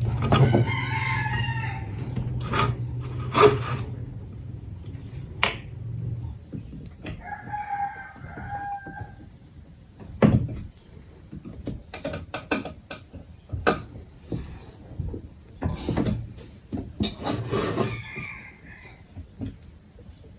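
A rooster crowing, near the start, again about eight seconds in and once more near the end, among scattered sharp knocks and clicks. A low steady hum stops about six seconds in.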